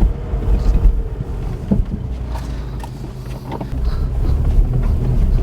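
Smart car running and rolling, its engine and a low rumble heard from inside the small cabin, with a few short clunks in the middle.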